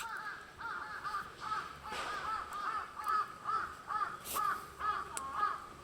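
Birds calling: a steady run of short, rising-and-falling call notes, two or three a second, several callers overlapping. A single sharp crack comes a little after four seconds.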